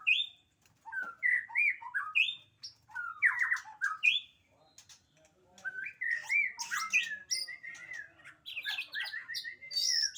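A murai batu (white-rumped shama) singing fast, varied phrases of whistles and harsh, squawky notes. There is a short pause about halfway, then a longer, busier run.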